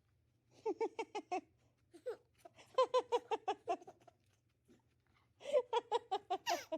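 Someone laughing in three bursts of quick, rhythmic ha-ha-ha pulses, the last burst near the end.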